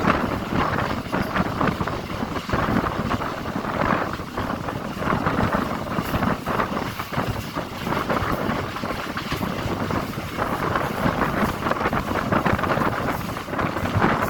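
DEMU (diesel-electric multiple unit) passenger train running, a steady noisy rush of train noise that swells and eases, with wind buffeting the microphone.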